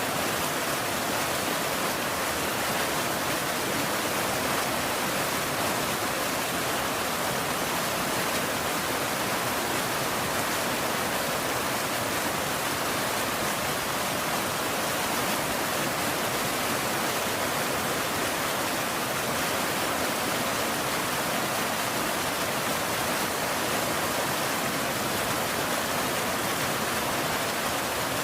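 Steady rain falling, an even hiss with no thunder and no change in level.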